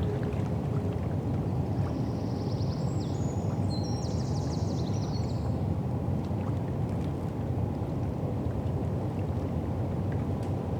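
River foreshore ambience: a steady low rumble of wind and water. A short run of high twittering comes about three to five seconds in.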